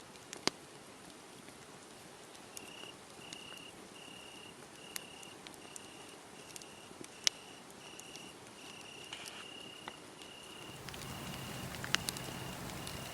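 Crickets chirping in an even rhythm, about one and a half chirps a second, over a wood fire crackling with sharp, scattered pops. The chirping starts after a couple of seconds. About eleven seconds in, a low steady rumble joins.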